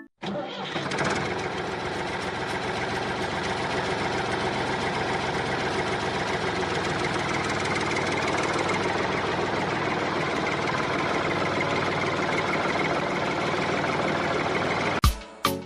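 A motor running steadily for about fifteen seconds, starting and stopping abruptly.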